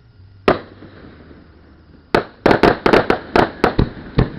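Aerial fireworks shells bursting: one sharp bang about half a second in, then a rapid volley of about ten bangs over the next two seconds.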